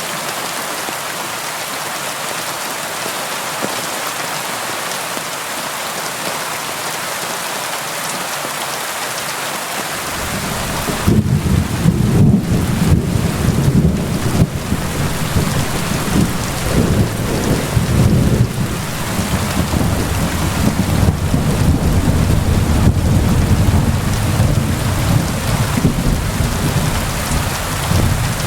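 Steady rain hiss. About ten seconds in, a long, deep rumble of thunder sets in and keeps rolling unevenly under the rain.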